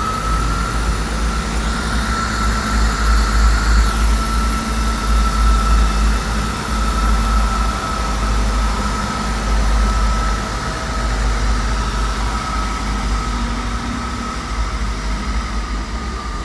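South Western Railway Class 159 diesel multiple unit departing: its diesel engines run under power with a steady high whine over a deep rumble.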